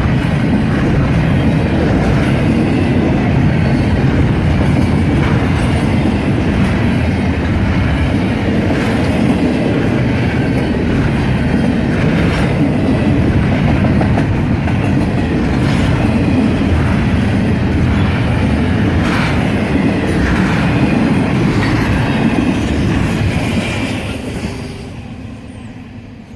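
Freight train cars rolling past with steady rumbling and the clickety-clack of wheels over rail joints; the sound fades away near the end as the last cars go by.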